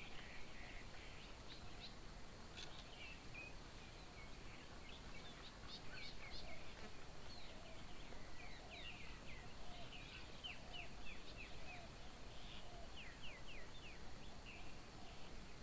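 Small songbirds chirping and twittering, with several quick runs of short, high repeated notes over a faint steady outdoor background.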